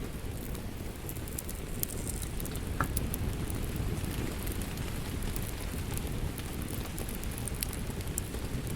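Wood fire crackling in a fireplace: a steady low rumble of burning with many scattered sharp crackles and pops.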